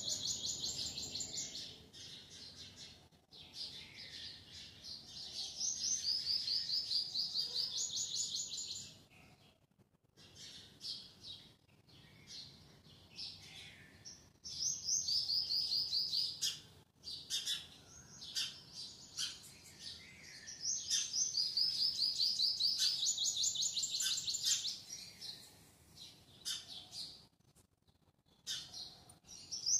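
A songbird chirping in phrases of rapid, repeated high notes that step up and down in pitch, each phrase lasting a few seconds, with quieter gaps between.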